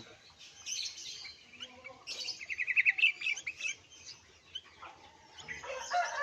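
Sooty-headed bulbuls chirping, with a quick run of high, evenly spaced notes about two and a half seconds in.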